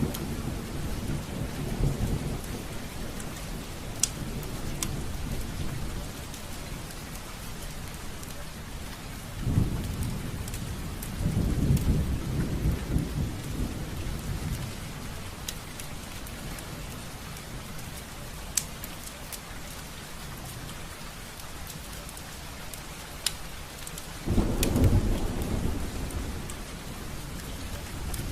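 Steady rain on a window, with a few sharp drop taps on the glass and low rolling thunder that swells up twice, about ten seconds in and again near the end.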